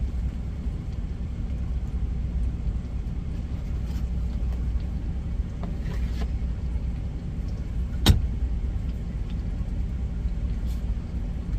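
Steady low rumble of an idling semi-truck engine heard inside the cab, with one sharp knock about eight seconds in.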